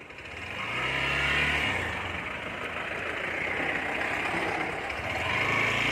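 Motorcycle engine running as the bike is ridden over a rough road, with a steady rush of wind and road noise over it; the engine hum swells about a second in and again near the end.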